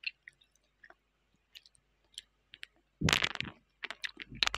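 Eating sounds: soft, scattered wet mouth clicks of chewing, then a louder sip from a mug about three seconds in, followed by a few more clicks.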